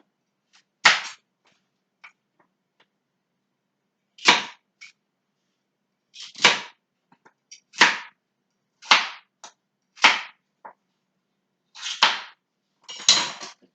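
Kitchen knife chopping carrot and zucchini on a cutting board: single sharp chops at an uneven pace, roughly one a second, with a pause of about three seconds after the first.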